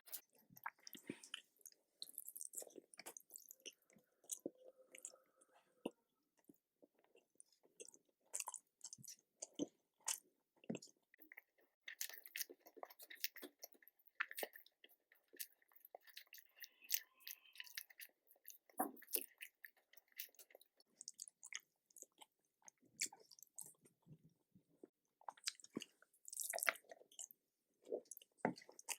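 Close-miked chewing and wet mouth sounds of a person eating nasi dagang, Terengganu rice with fish curry: irregular short smacks and clicks, several a second.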